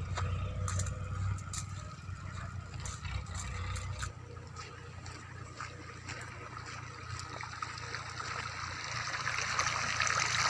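Water pouring and splashing from an irrigation pump outlet, with a motorcycle engine driving the pump. The engine's low drone drops away about four seconds in, while the rush of water grows louder near the end.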